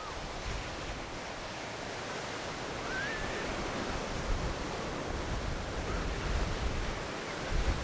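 Ocean surf washing onto the beach, a steady rushing sound, with wind buffeting the microphone more strongly in the second half.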